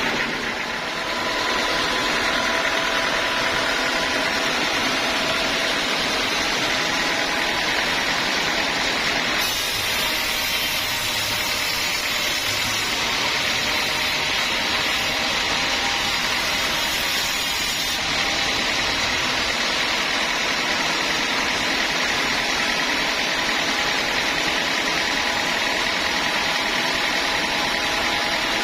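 Homemade band sawmill running with a steady, even mechanical noise; the high hiss grows brighter about a third of the way in and drops back about two thirds in.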